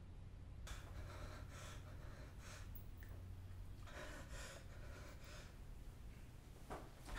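Quiet, repeated breathing and gasps of a man who has just woken with a start.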